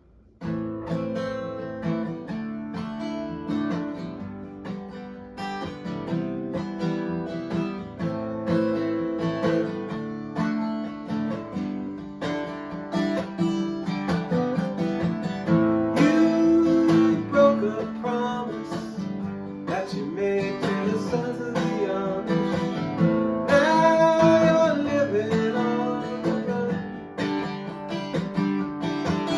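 Acoustic guitar music, a plucked and strummed instrumental passage that starts suddenly about half a second in.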